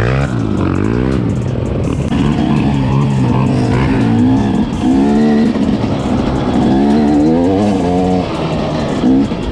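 Off-road vehicle engine revving up and down, its pitch rising and falling repeatedly as the throttle is worked over rough ground.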